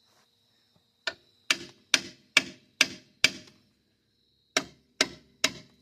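Hammer blows on a steel wheel stud in the truck's front hub, struck to drive the stud out. Six sharp metallic strikes about two a second, a short pause, then three more, each ringing briefly.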